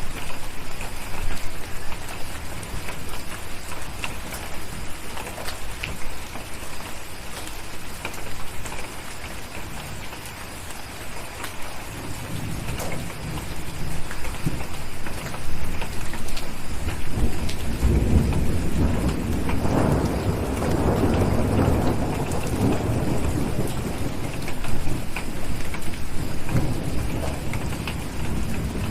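Steady rain falling, with a long low rumble of thunder that builds about halfway through, peaks, and slowly fades toward the end.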